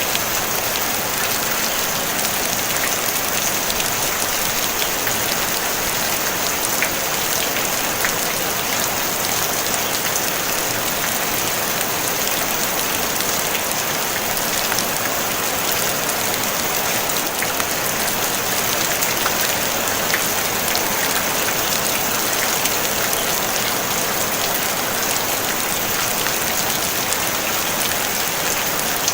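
Steady rain on a tin roof: a dense, even hiss of drops with countless small ticks scattered through it, no thunder.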